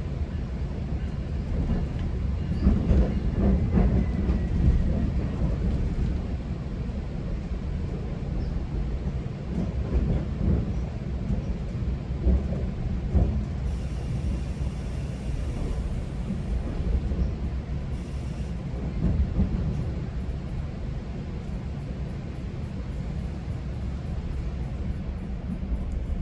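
GO Transit passenger coach in motion heard from inside: a steady low rumble of wheels on track, with irregular louder knocks and jolts.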